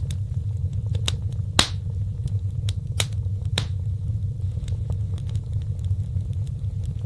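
Wood fire burning in a fireplace: a steady low rumble of the flames with sharp crackles and pops from the burning wood, the loudest pop about a second and a half in.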